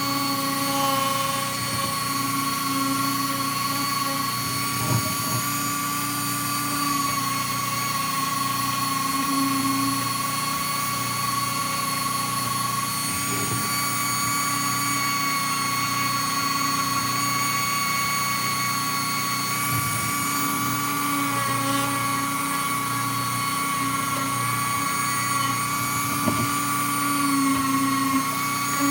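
An electric power tool motor running steadily with a high whine, used on a Crupi BMX chainring, with a few brief knocks now and then.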